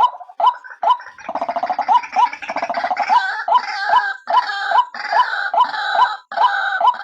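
White-breasted waterhen (ruak-ruak), said to be a female, calling: short croaking notes repeated about twice a second, breaking about a second in into a fast, gurgling chatter of overlapping notes, then settling back into rhythmic croaks.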